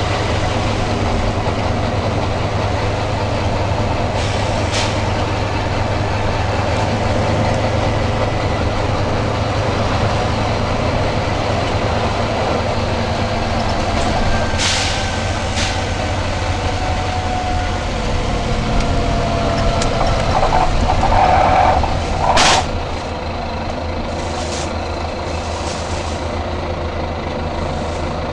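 Volvo B9TL double-decker bus with its diesel engine running steadily, giving off short compressed-air hisses several times. A faint falling whine runs through the middle. About 22 seconds in, a louder rush ends in a sharp air-brake hiss, and the bus settles to a quieter idle.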